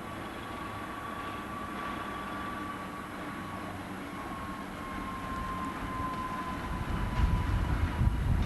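Alco S4 switcher locomotive's diesel engine running as the freight moves, with a low rumble that grows much louder near the end as it draws close. A thin whine slowly drops in pitch throughout.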